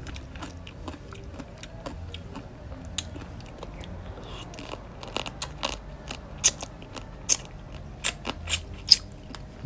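Close-up eating sounds of raw crab: biting, chewing and crunching through shell, with sharp cracking crunches that come louder and more often in the second half.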